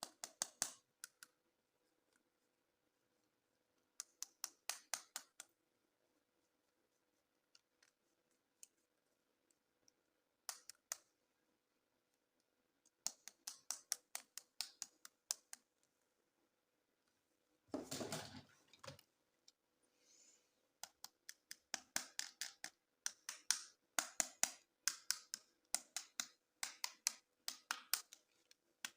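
Sharp plastic clicking and crackling from unboxing and handling plastic toys and their packaging. The clicks come in short rapid clusters with pauses between them, and about two-thirds of the way through there is a longer, denser crackle lasting about a second.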